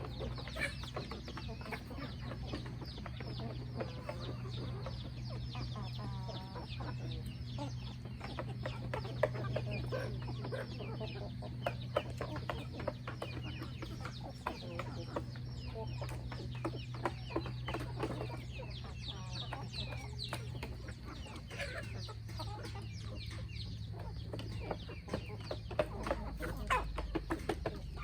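A flock of free-range chickens clucking continuously, with many short clicks and taps among the calls and a steady low hum underneath.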